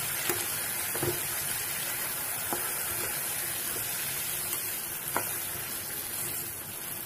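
Chicken, chopped tomatoes, green chilli and mint sizzling in hot oil in a pan while a metal spoon stirs them, with a few light taps of the spoon against the pan.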